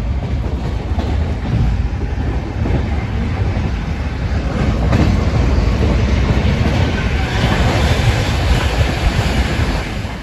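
Passenger train coaches running at speed on the track: a steady rumble with occasional knocks from the wheels over rail joints, getting louder and brighter about halfway through.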